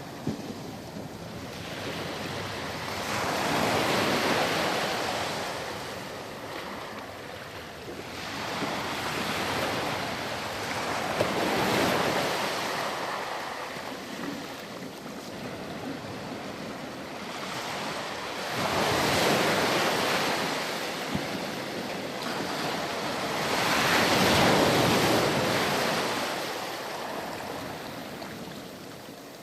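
Ocean surf on a beach: waves breaking and washing in, in four slow surges that swell and fade about every six to seven seconds.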